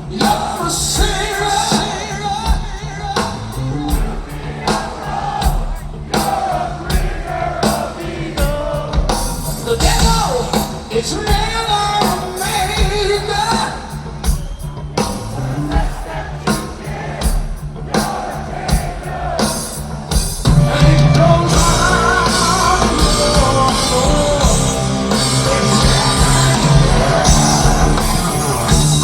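Live heavy metal concert heard from the audience in a large hall: the crowd sings the vocal line along with a pared-down band, then about 20 seconds in the full band comes back in louder with heavy bass and drums.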